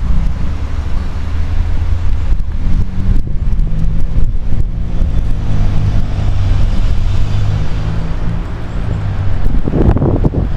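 Road traffic: motor vehicles running close by, a low engine hum that shifts in pitch as vehicles pass, with a louder rush of a passing vehicle near the end.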